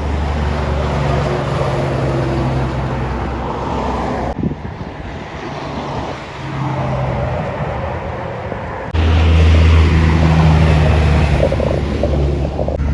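Diesel engines of Kenworth trucks driving past, a steady low engine drone over tyre and road noise. The sound changes abruptly twice, about four and nine seconds in, with the loudest truck in the last part.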